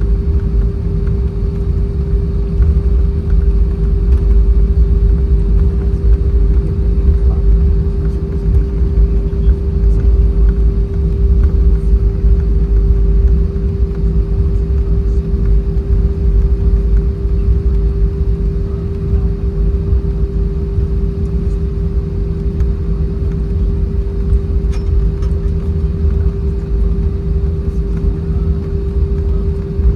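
Cabin noise of an Airbus A320-232 taxiing after landing: a steady low rumble from the idling IAE V2500 engines and the rolling undercarriage, with a constant hum throughout.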